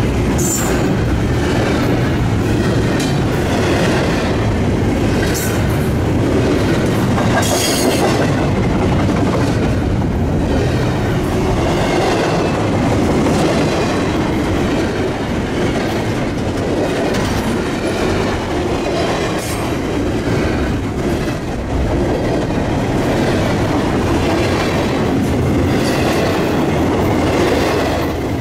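Intermodal container train's cars rolling steadily past at track side: a continuous rumble of steel wheels on rail, with repeated clickety-clack over the rail joints and a few brief high wheel squeals.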